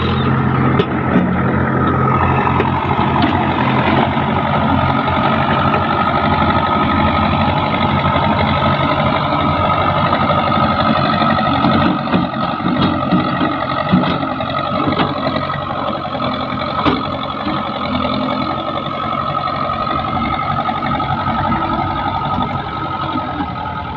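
Diesel engine of heavy machinery running steadily, with a few sharp knocks in the second half.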